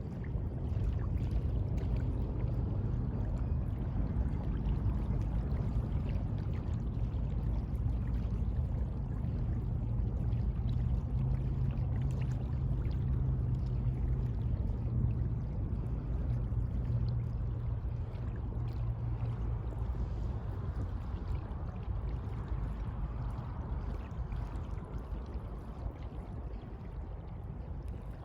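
Sea water washing, a continuous wash that swells through the middle and eases off toward the end, with a deep rumble underneath.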